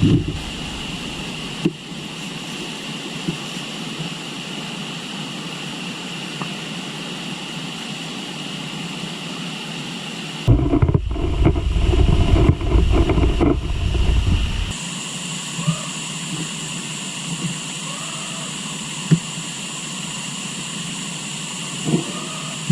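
Steady outdoor ambience of a flowing river with insects buzzing continuously at a high pitch. A deep rumble cuts in for about four seconds in the middle, and the insect buzz grows stronger after it.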